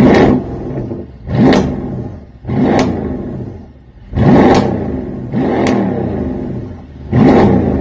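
Loud car exhaust as the engine is revved in six sharp throttle blips, each rising quickly and falling back toward idle.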